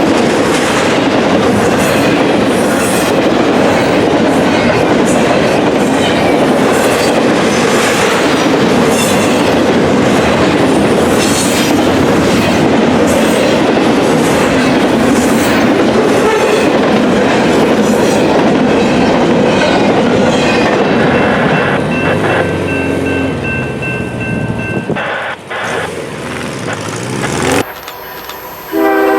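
A train passing close by, its wheels clacking over rail joints under a loud, steady rumble that eases off about three-quarters of the way through. Right at the end a train horn starts to sound.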